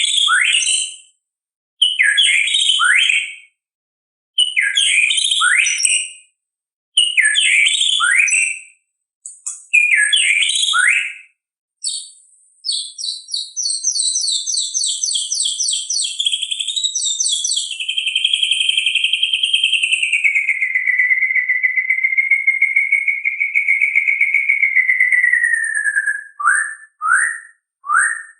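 White-rumped shama (murai batu) singing. It gives five short phrases about two seconds apart, each of falling whistled notes topped with high chips, then a fast run of repeated notes, then a long wavering whistled trill that slides lower and holds for about eight seconds. It ends with a few short falling notes.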